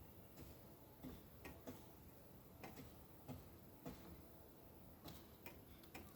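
Near silence broken by faint, short clicks or crunches at uneven intervals, about ten of them, roughly one every half second to a second.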